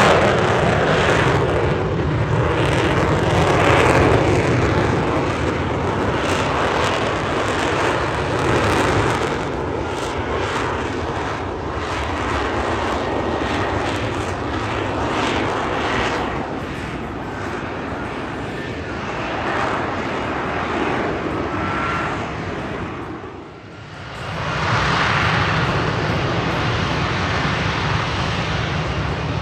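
Fixed-wing aircraft engine noise, loud and continuous, swelling and easing, with a brief drop about three-quarters of the way through before it returns.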